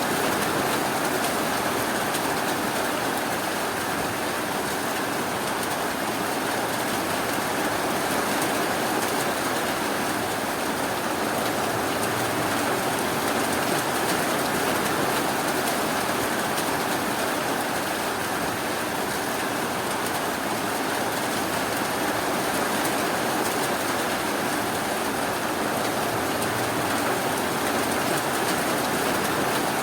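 Steady rainfall, an even hiss of rain that keeps on without breaks or changes.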